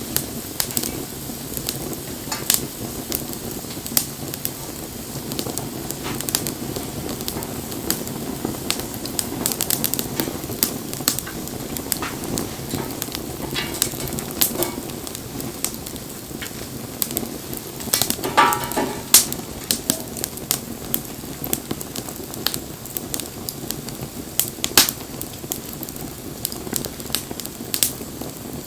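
Wood fire burning, with steady crackling and sharp pops scattered throughout. About two-thirds of the way in comes a brief wavering whistle.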